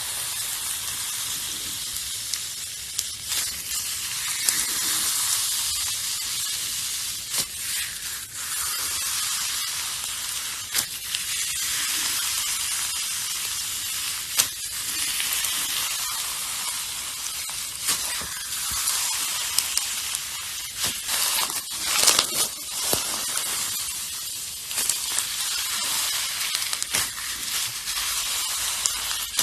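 Slime being mixed and squished: a steady crackling hiss full of small sharp pops and clicks, with a louder spell of crackling about three-quarters of the way in.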